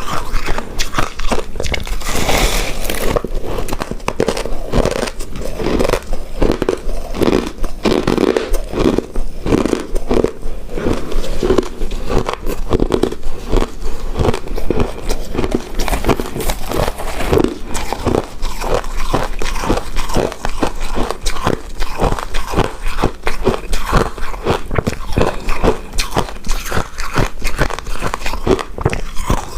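Close-miked eating: a person biting and chewing a chewy coconut rice cake coated in shredded coconut, with a quick, continuous run of wet mouth clicks.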